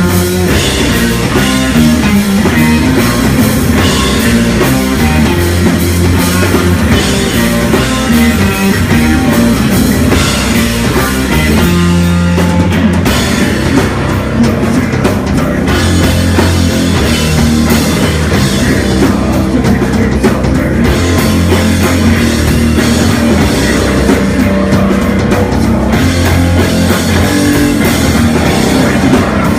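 Live rock band playing loud: distorted electric guitar, bass and drum kit in a heavy, driving song, recorded from the crowd with little separation between instruments.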